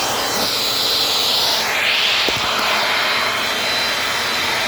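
Dirt Devil Dynamite Plus vacuum cleaner running steadily: a loud rush of air with a high motor whine, the sound shifting briefly about a second and a half to two seconds in.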